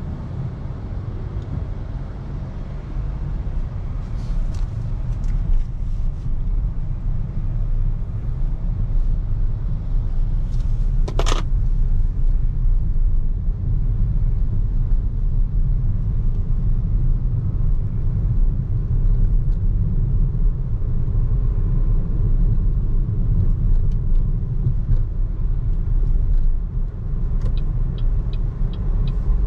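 Low road and tyre rumble from a BYD Seagull electric car driving in city traffic, growing louder over the first several seconds as it picks up speed. A single short, high-pitched tone sounds about eleven seconds in, and faint ticks come in a quick run near the end.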